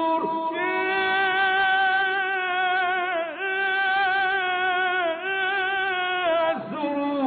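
Solo male voice singing an Egyptian ibtihal (Islamic devotional chant), drawing out long, ornamented melismatic notes with a wavering pitch. There are brief breaks about three seconds in and near the end.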